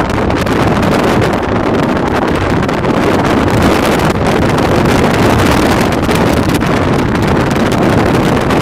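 Steady, loud wind rush on the microphone, an even roar with no distinct events.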